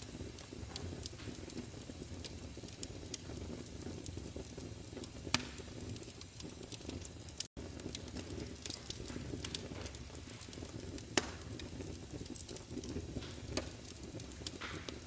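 Wood fire burning in a fireplace: a steady low rumble with scattered crackles and a couple of louder pops. The sound cuts out for an instant about halfway through.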